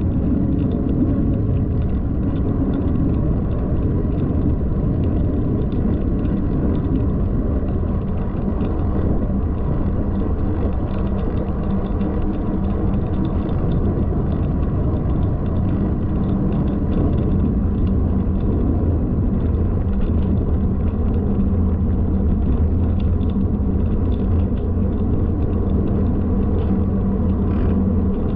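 Steady low rumble of wind and handling noise on a moving camera, with faint rattling ticks over it.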